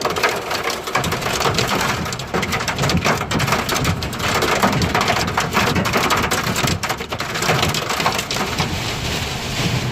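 Torrential rain lashing down in a thunderstorm downburst, a dense steady hiss with crackling spatter. Underneath is an uneven low rumble from the severe wind gusts.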